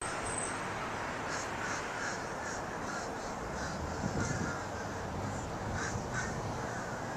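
Birds calling repeatedly outdoors, short calls about two a second, over steady background noise.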